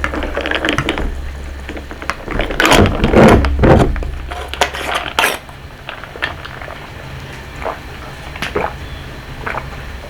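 A Coca-Cola bottle and glass being handled at a table: the bottle is capped and the glass knocks and clinks, with a person sipping the cola. The knocks come thickest in the first few seconds and then thin out to occasional faint clicks.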